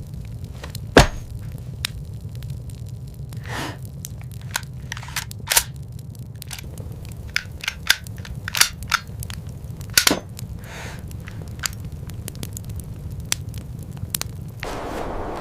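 Irregular sharp cracks and pops, a few loud ones among many small clicks, over a steady low rumble.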